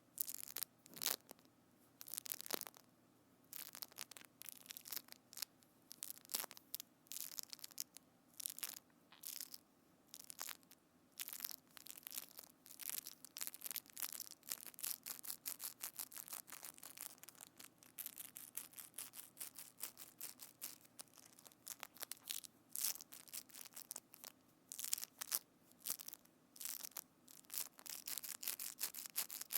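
Close-miked crackling and crunching as hands squeeze and work a sticky or foamy material against a binaural microphone: quick irregular crackles in short bursts, denser in the second half.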